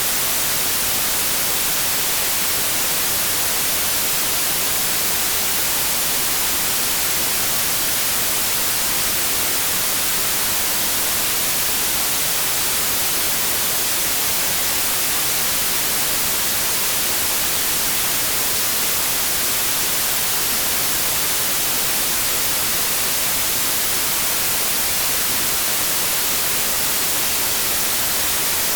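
Synthetic white noise: a steady, even hiss, loudest in the treble, with no change in level.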